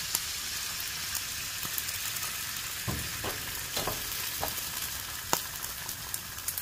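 Food sizzling steadily on a hot camp grill, a high hiss full of small crackling pops, with a few light knocks about halfway through.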